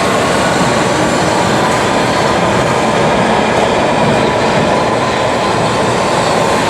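London Underground train running along the platform: a loud, steady rumble and rail noise, with a faint steady whine that fades in the first second or so.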